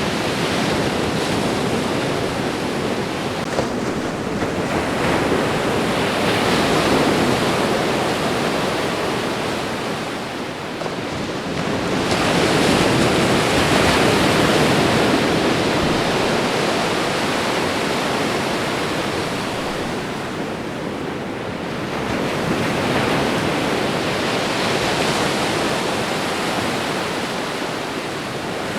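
Ocean surf washing onto a shore: a steady rush of water that swells and eases as each wave comes in, about every eight to ten seconds.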